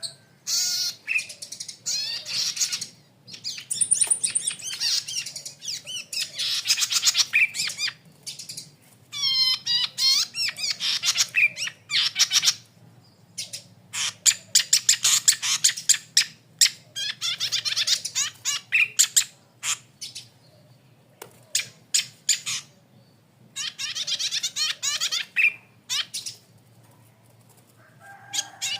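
Red-headed cici padi (golden-headed cisticola) singing: repeated bursts of rapid, high chattering phrases, each a second or two long, with short pauses between them.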